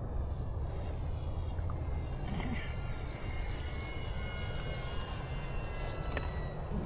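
Freewing F-22A Raptor 90mm electric ducted-fan jet in flight, its fan whine steady and slowly falling in pitch as it passes, over a low rumble of wind on the microphone.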